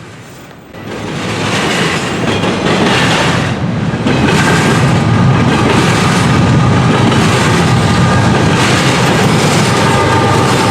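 Intermodal freight train passing close by, its cars rumbling and clattering over the rails. It swells about a second in, then holds steady and loud, and a few steady tones join near the end.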